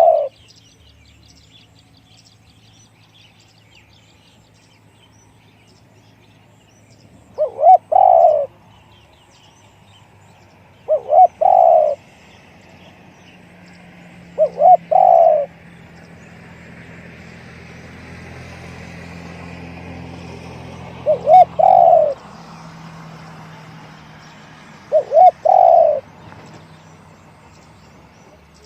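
Spotted dove cooing: five short, loud coo phrases of two or three quick notes each, spaced a few seconds apart.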